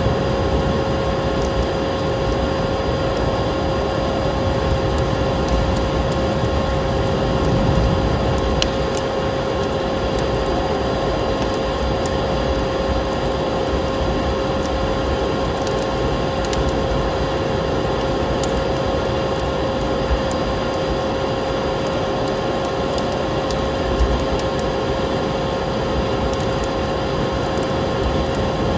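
Steady vacuum cleaner motor hum with a constant whine, layered with the scattered crackles and pops of a wood fire.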